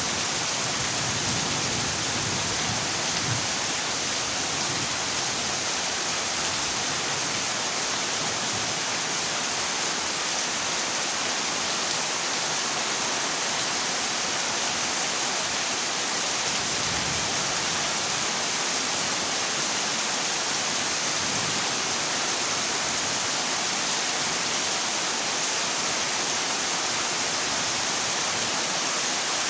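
Heavy rain drumming on a corrugated zinc roof, a dense, steady hiss with no letup.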